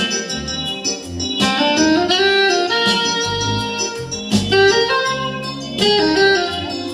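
Instrumental jazz: keyboard chords under a held melody line, with a bass line below, the chords changing every second or so.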